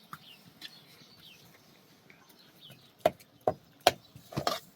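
Kitchen utensils against pots and dishes: a few sharp clinks and knocks starting about three seconds in, with a quick cluster near the end. Before that, only faint short bird chirps.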